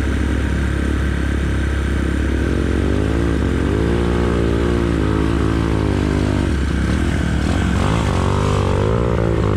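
Motorcycle engine running under a steady drone, its revs rising and falling again and again from about three seconds in.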